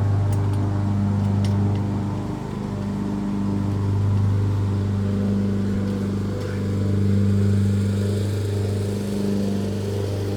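Lawn mower engine running steadily at one pitch, growing louder and fainter several times as it moves back and forth across the lawn.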